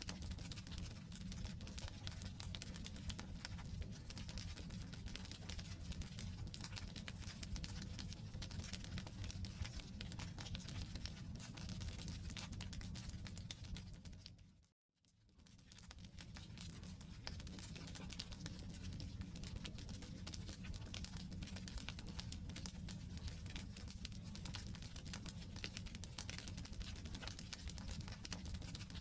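Wood campfire crackling steadily, dense small pops and snaps over a low rumble. The sound fades out to silence for about a second halfway through, then fades back in.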